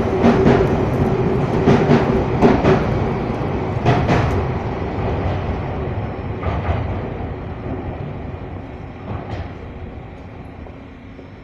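Semboku Rapid Railway 7020 series electric train pulling away, its wheels clacking over rail joints with a steady hum, the clacks growing sparser and the rumble fading steadily as it draws away.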